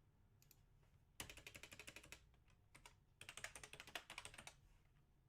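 Faint typing on a computer keyboard: two short runs of quick keystrokes, the first starting about a second in and the second about three seconds in.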